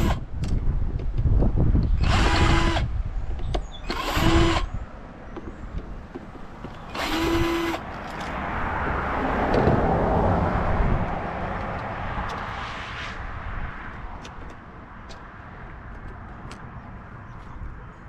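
Power drill spinning in short bursts, three quick whirs in the first seven seconds while screws are driven out of a coffee maker being scrapped. After them a broader rushing noise swells and fades over several seconds, followed by a few light clicks from parts being handled.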